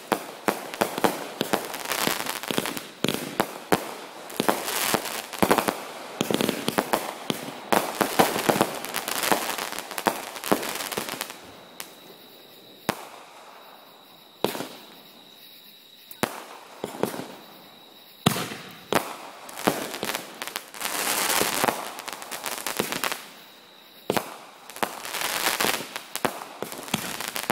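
Fireworks going off in rapid volleys of bangs and crackles. About halfway through, the firing thins to single bangs for several seconds, then heavy volleys start again.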